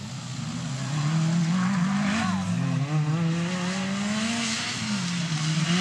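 Engine of a Suzuki 4x4 off-road racing prototype, revving up and down as it drives the course, its pitch rising and falling several times. It gets louder about a second in.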